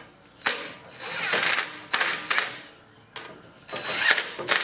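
Air filter base and its parts being handled and fitted onto a small four-stroke engine: a run of sharp knocks and clicks with short scraping sounds between quiet gaps, the engine not running.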